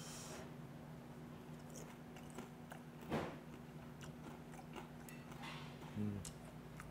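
A person chewing food at close range, with soft, faint crunches and one louder short noise about three seconds in. A brief low 'mm' comes near the end.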